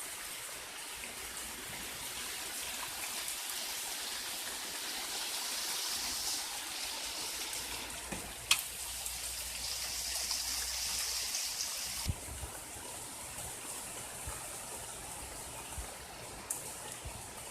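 Running floodwater and heavy rain, a steady rushing hiss, with one sharp click about eight seconds in.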